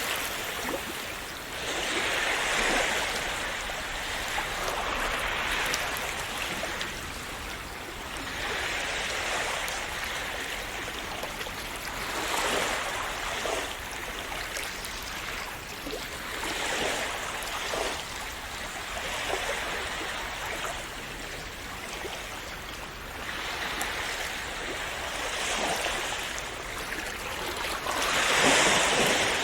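Small sea waves washing and splashing on the shore, each swell rising and falling every few seconds, with the largest near the end.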